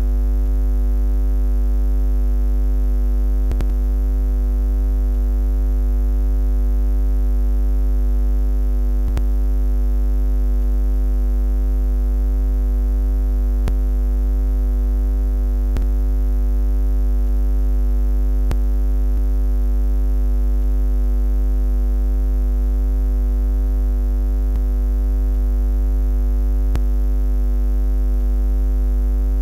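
Steady low electric-style buzz: a continuous hum with a stack of even overtones, unchanging in pitch and loudness.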